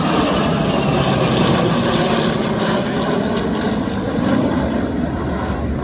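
An airplane's engines running loudly as it flies by, a steady dense noise that eases a little near the end.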